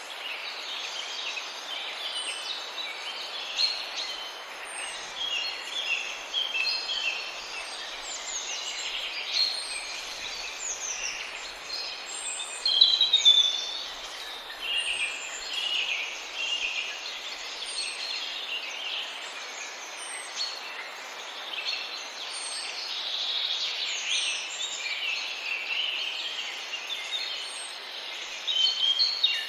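Many birds calling at once: a dense chorus of short, overlapping chirps and trills over a steady hiss, loudest about halfway through. A faint high tick repeats at an even pace, a little slower than once a second.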